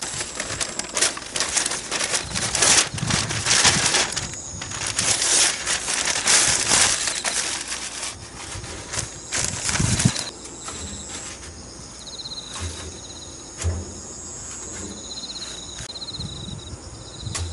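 Rustling and knocking handling noise for about the first ten seconds, then quieter. Crickets chirp in short pulses throughout.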